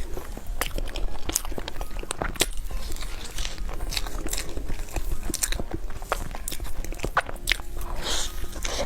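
Close-miked eating: biting into and chewing a dessert, with many quick, irregular crisp clicks and crunches.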